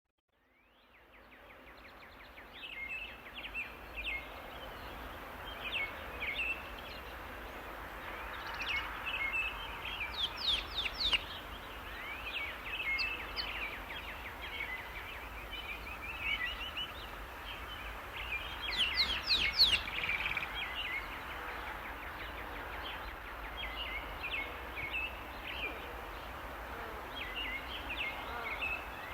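Several small forest birds chirping and calling over a steady background hiss, fading in about a second in, with two spells of quick, high sweeping notes about a third and two-thirds of the way through.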